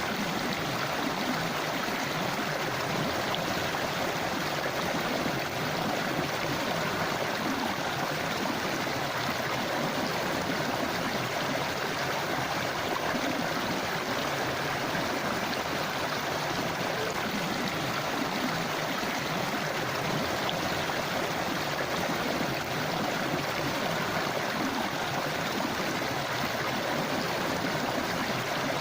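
A forest river or stream flowing steadily over rocks, a continuous rushing and gurgling of water.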